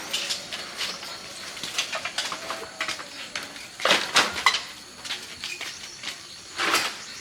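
Scrap being handled: a run of clinks and knocks of hard objects, loudest in a cluster about four seconds in and again near the end.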